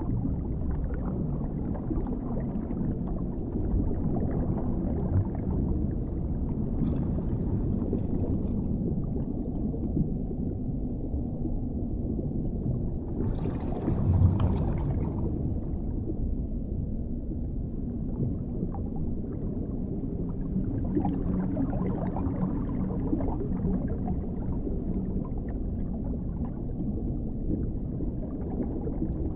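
Underwater ambience: a steady deep, muffled rumble of water with slow swells and a faint low hum, and a brief brighter swell about halfway through.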